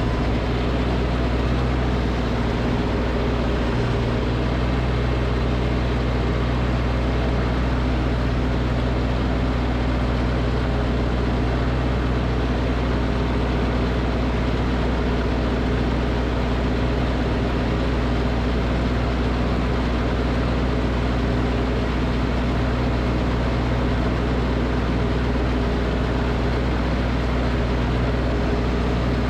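Snowblower engine running at a steady speed throughout, a constant low drone with no changes in pitch.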